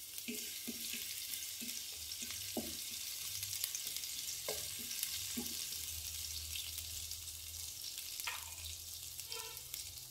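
Sliced green chillies sizzling and crackling in a little hot oil in a nonstick wok. A wooden spatula stirs them, giving a series of soft knocks and scrapes in the first half.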